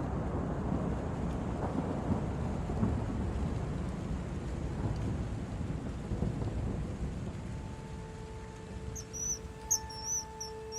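A rumble of thunder and rain that slowly fades. About eight seconds in, soft held music notes and repeated high chirps come in.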